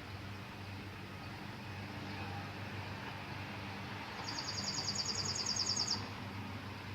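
A songbird's rapid trill of high, evenly repeated notes lasting about two seconds, starting a little after the middle, over a steady low hum of a distant engine.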